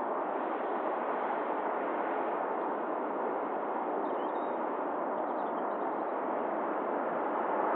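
Jet engines of an Airbus A350-900 running, heard from a distance as a steady rushing noise, with a few faint high chirps about four to five seconds in.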